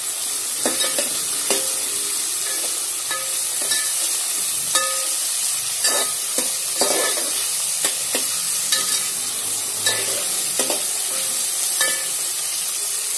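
Onion, tomato and green chilli sizzling in hot oil in a metal pot while a steel ladle stirs them, clinking and scraping against the pot about once a second. This is the tempering stage of sambar, frying until the tomato softens.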